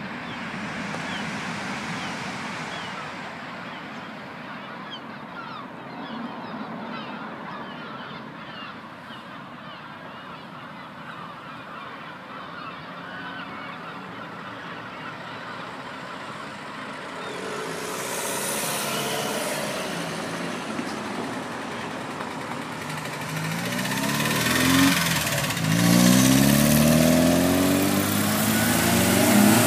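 Background hubbub, then about 23 seconds in a car engine revving and pulling away, its pitch climbing several times and loudest near the end.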